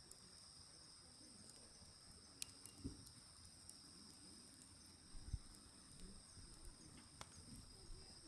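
Faint crackle of burning firewood, with a few sharp pops and soft thuds, over a steady high trill of insects such as crickets.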